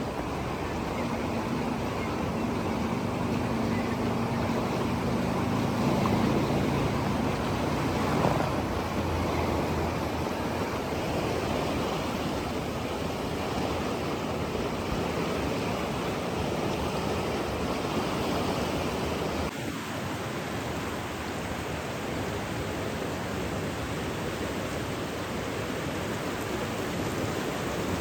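Steady rushing water, an even continuous noise with no breaks. A faint low hum sits under it for the first several seconds.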